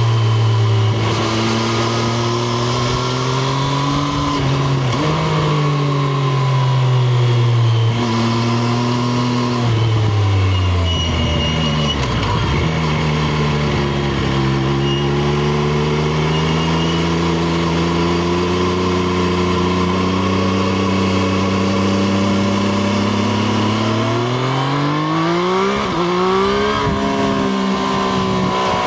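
Triumph Street Triple RS's 765 cc three-cylinder engine heard onboard while riding. The revs rise and fall and drop away about ten seconds in as the bike slows, build slowly at low revs, then climb hard with a few quick upshifts near the end.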